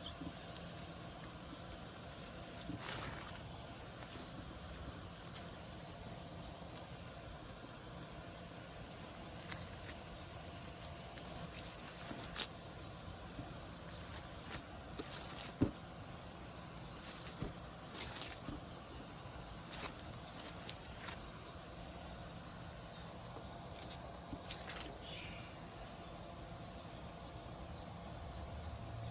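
A steady high-pitched chorus of insects, with scattered faint clicks and taps and one sharper click about halfway through.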